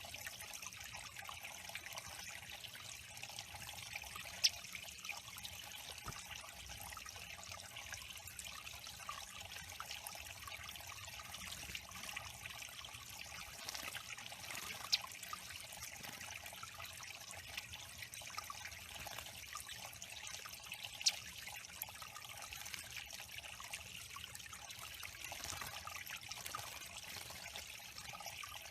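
Water trickling steadily into a bird pond, with three brief sharp ticks spaced well apart.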